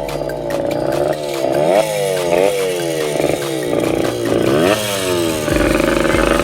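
Small single-cylinder engine of a Suzuki pit bike revved over and over, its pitch jumping up and sagging back about once or twice a second, then holding steadier near the end.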